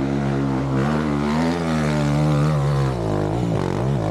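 Dirt bike engine running at a steady pitch, then revved up and down in several quick throttle blips about three seconds in.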